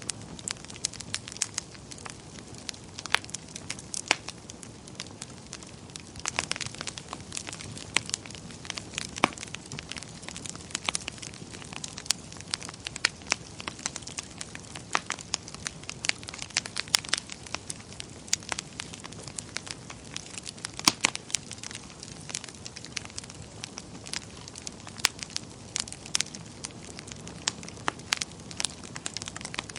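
Fire crackling in a fireplace: many sharp, irregular pops and snaps over a steady low hiss.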